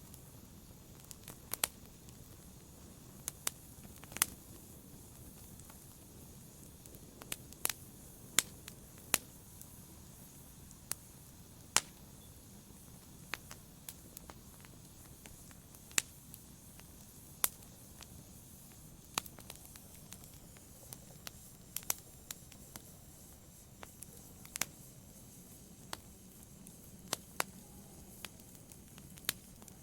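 Wood fire crackling: sharp, irregular pops and snaps, sometimes two or three close together, over a low steady hiss of burning.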